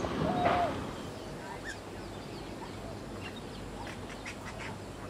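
Birds calling: one short call that holds its pitch and then drops, about half a second in, followed by a scatter of faint, short high chirps.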